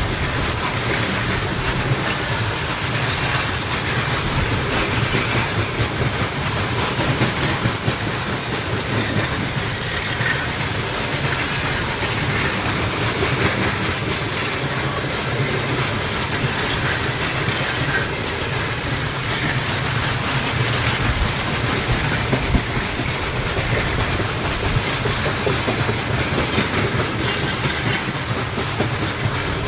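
Freight train rolling past, its wagon wheels clattering steadily over the rail joints.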